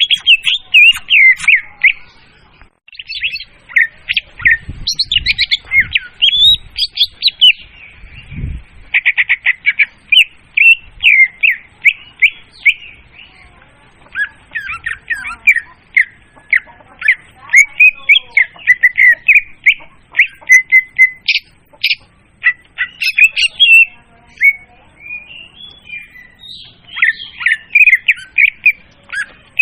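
Leafbird (murai daun) song played as a bird lure: a loud, fast, nearly continuous jumble of chirps, trills and short whistled notes, with one brief pause about two seconds in.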